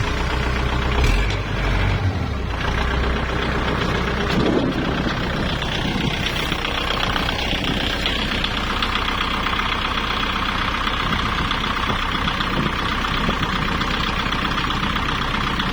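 Kubota tractor's diesel engine running steadily, heavier for the first couple of seconds, with a steady higher whine joining about halfway through.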